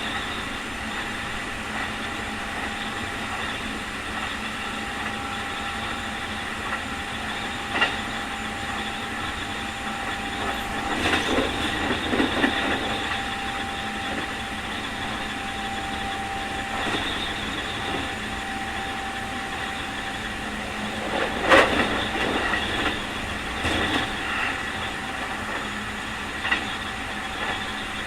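Inside a Keikyu 2000 series field-chopper train running at speed: a steady whine of several held tones over the running noise, the so-called 'jet sound' of this abnormal-noise car. Wheels clack over rail joints or points a few times, in bunches about a third and three quarters of the way through.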